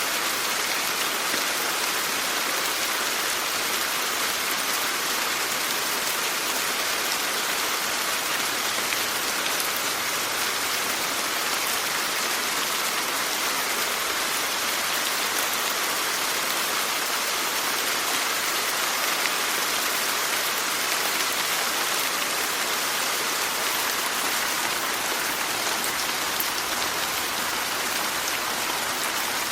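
Steady rainfall, a dense even hiss of drops with fine pattering, unchanging in strength.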